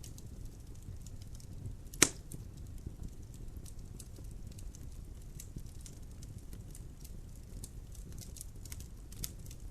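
Logs burning in a fireplace: a low steady rumble of flame with frequent small crackles and ticks. One loud, sharp pop about two seconds in.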